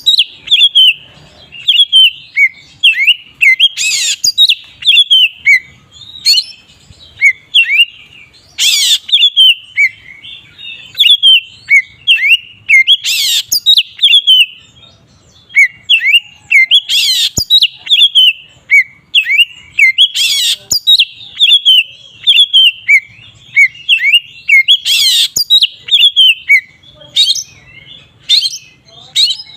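Oriental magpie-robin (kacer) in full, continuous song: a rapid run of short whistled notes that bend in pitch. Every four seconds or so a louder, sharp, piercing note breaks in.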